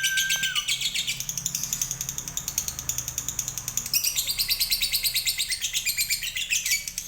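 Lovebird's 'ngekek': a long, unbroken chattering trill of fast, sharp high notes, many per second, stepping in pitch about a second in and again at about four seconds.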